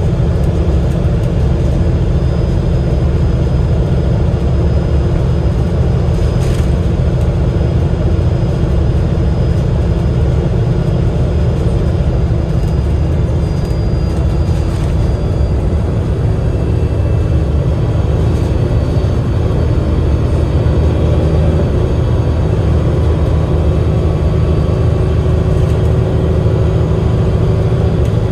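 Cummins L9E six-cylinder diesel engine and Voith DIWA automatic gearbox of an Enviro500 MMC double-decker bus running steadily under way, a deep continuous rumble with faint whining tones that shift slowly. A single short click about six and a half seconds in.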